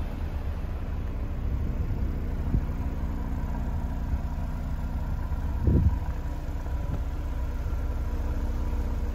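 Honda S2000's four-cylinder engine idling steadily, with one brief thump a little past halfway through.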